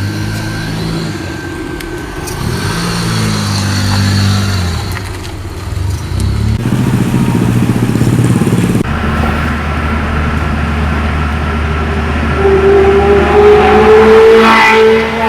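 A 1992 Mitsubishi Lancer's 1600 cc engine running under way, its pitch rising and falling as it revs and changes gear, with a louder rising whine in the last few seconds.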